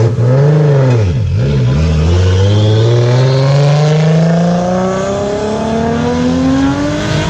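A car engine revved through its exhaust. There is a quick blip up and back down about half a second in, then a slow, steady climb in revs over about five seconds, let off right at the end.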